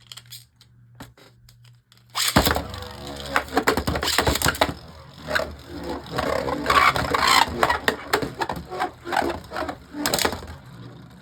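Harmony Pegasus and Judgment Dragon, two Beyblade Burst spinning tops, are launched into a stadium about two seconds in. After that they spin and clash with a dense, continuous rattle of clicks and collisions.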